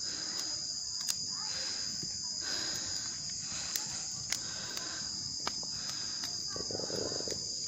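A steady high-pitched chorus of crickets trilling, with occasional sharp pops and crackles from a wood bonfire burning.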